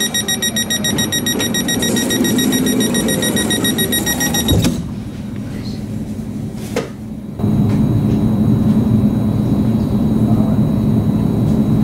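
Commuter electric train's door-closing warning: a fast high beeping, then the doors shut with a thump about four and a half seconds in. After a click, the train's electric drive and ventilation hum starts louder, with a thin high whine, as it pulls away.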